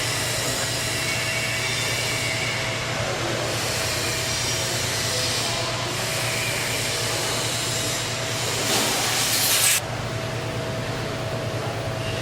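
Automatic key milling machine running: a steady motor hum with a constant whine and hiss. About nine seconds in a louder, hissier stretch lasts about a second and cuts off suddenly.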